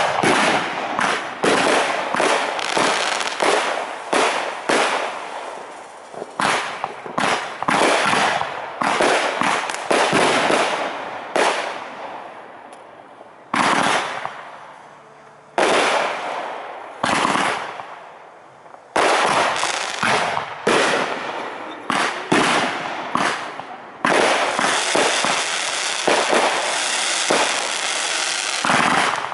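Aerial fireworks shells bursting one after another, each a sharp bang trailing off in echo, with a few short lulls. About three-quarters of the way through, the bursts run together into a dense, continuous crackle.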